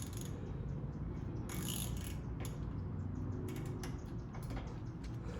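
Socket wrench ratchet and socket clicking in short irregular runs as a caliper bolt is worked with an Allen socket on an extension.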